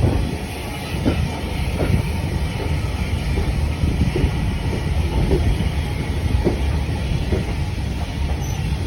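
Heritage railway train running along the line: a steady low rumble of wheels on track, with scattered light clicks of the wheels over rail joints.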